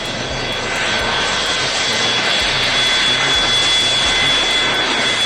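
Jet aircraft's turbofan engines running loud: a steady rushing noise with a high, held whine on top, swelling over the first second.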